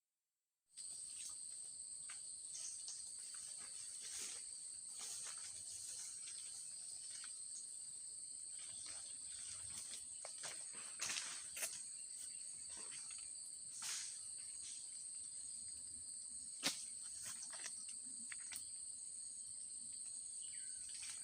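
Steady high-pitched insect drone, the chorus of crickets or cicadas, starting about a second in, with scattered short clicks and chirps over it, the sharpest about 17 seconds in.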